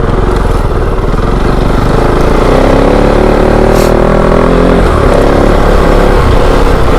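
Kove 450 Rally's single-cylinder four-stroke engine under way on dirt, rising in pitch as the throttle opens about two seconds in, easing off shortly before five seconds and picking up again.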